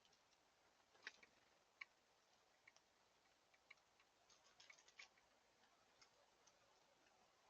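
Faint, irregular small clicks and taps, with sharper ones about one and two seconds in and a quick cluster of them between four and five seconds.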